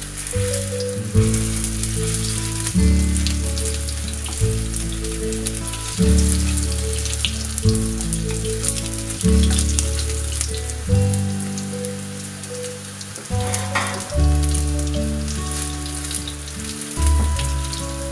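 Battered chicken tenders shallow-frying in oil in a nonstick pan: a steady crackling sizzle. Background music is louder, with low chords that change about every one and a half seconds.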